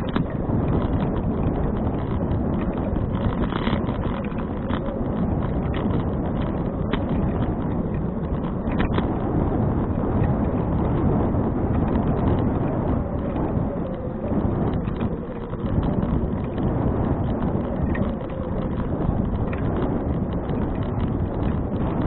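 Steady wind rumble buffeting an action camera's microphone during a bicycle ride, with scattered small clicks and rattles.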